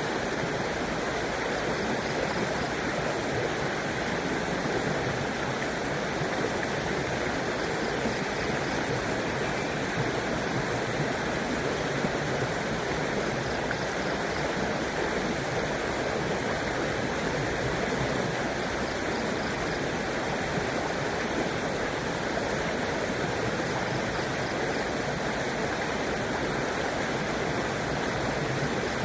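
A river running steadily over rocks: continuous rushing and gurgling water with no breaks.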